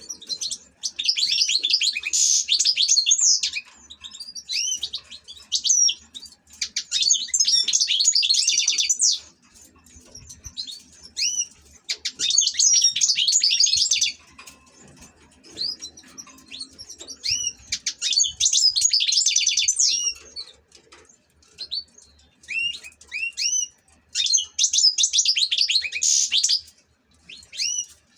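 European goldfinch singing: about five bursts of fast, high twittering song a few seconds apart, with single short chirps between them.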